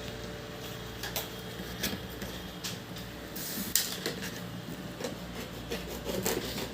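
Irregular knocks and rustles of a washing machine's packaging being handled as it is unboxed, over a steady low hum; the sharpest knock comes at the very end.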